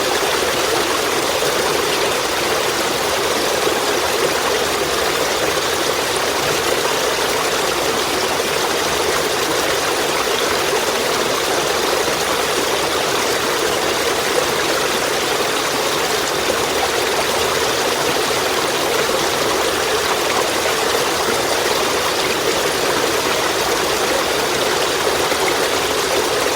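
Running water of a stream flowing steadily, a continuous even rush and ripple without any sharp sounds.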